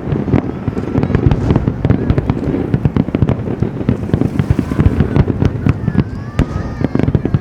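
Aerial fireworks display in a dense barrage: many booms and crackling bursts a second, one over another, with a continuous low rumble.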